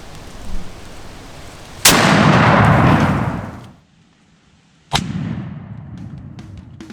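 Shotgun shot about two seconds in, its boom rolling on for more than a second before dying away, from a Remington firing Long Beard XR turkey loads. About five seconds in a second, quieter shot cracks and fades out.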